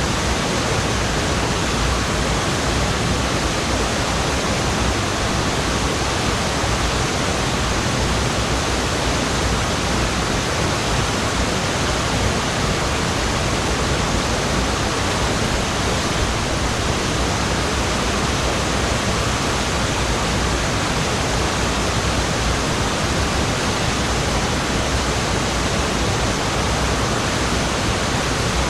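Waterfall: the steady, loud rush of falling water, unchanging throughout.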